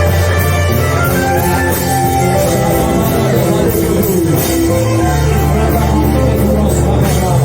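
Live worship band playing an instrumental passage with sustained bass, keyboard and guitar.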